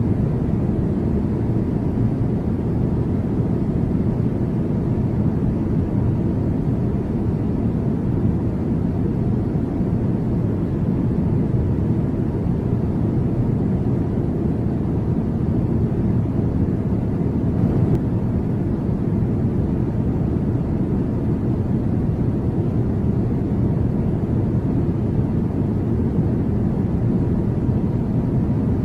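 Steady low rumble of a Boeing 747-400 freighter's jet engines, holding an even level with no rise or fall.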